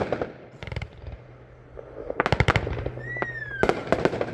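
A 36-shot angle cake (Night King) firing in quick succession: repeated sharp launch and burst reports, with a falling whistle about three seconds in.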